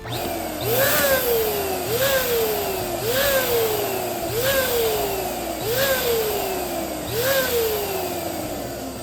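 Electric balloon pump running with a steady rush of air, its motor pitch jumping up and then sagging back six times, about once every second and a quarter.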